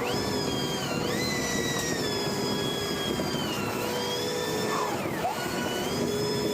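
Electric power tool motor whining as its trigger is worked: it speeds up about a second in, holds, slows, cuts out about five seconds in, then spins up again and keeps running.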